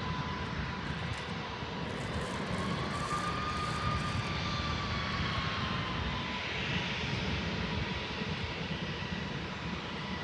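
Jet airliner engines running at low power, a steady whine with rushing noise; the whine rises slightly in pitch a couple of seconds in and settles back down.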